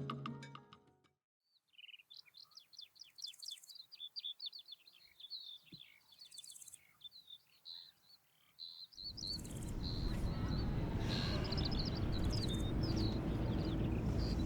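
Small birds chirping in a rapid series of short, high calls. Music fades out at the start, and about nine seconds in a steady rushing background noise rises under the last chirps.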